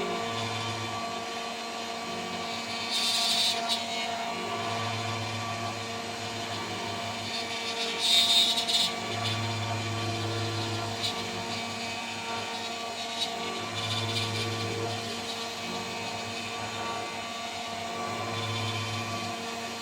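CNC router spindle running with a steady whine while a 3 mm three-flute end mill cuts, with louder cutting passes about three and eight seconds in. A low hum swells and fades every four to five seconds as the machine moves.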